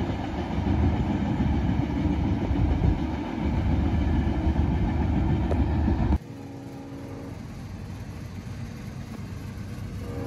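CSX freight train rolling past, a loud steady rumble and rattle of wheels and cars on the rails. It cuts off abruptly about six seconds in, leaving a much quieter background with a short faint tone just after the drop.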